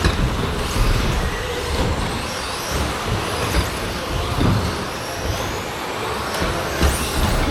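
Several electric 2WD RC stadium trucks racing on a carpet track: high motor whines rise and fall over steady tyre and drivetrain noise, with a few sharp knocks.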